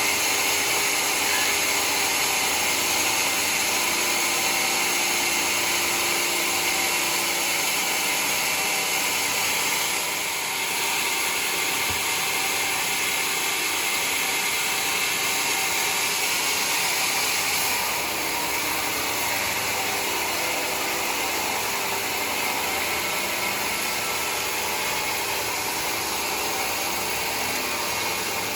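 Sawmill running steadily while it cuts through a mahogany board, a continuous hissing machine noise that drops slightly in level about ten seconds in and again a little after halfway.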